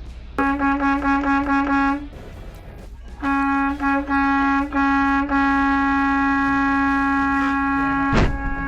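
Vehicle horn honking in a quick string of short blasts, then after a pause a few more short blasts and one long held blast. A sharp knock sounds near the end, during the long blast.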